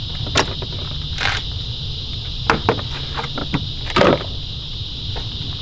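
Scattered clicks and knocks of hands and tools working on parts in a BMW E46 engine bay, about half a dozen short hits over a few seconds. A steady high-pitched buzz runs behind them.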